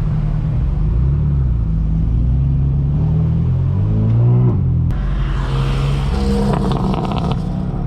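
Straight-piped BMW M4 F82's twin-turbo inline-six exhaust rumbling at low revs, with a short rev that rises and falls about four seconds in. About five seconds in the sound changes suddenly to a brighter, raspier exhaust note with a quick run of crackles near the end.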